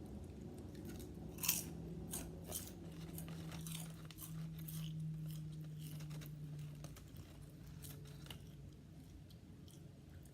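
Potato chips crunched and chewed close to the microphone: a run of sharp crunches over the first few seconds, the loudest about a second and a half in, easing into softer chewing. A low steady hum sits underneath for several seconds.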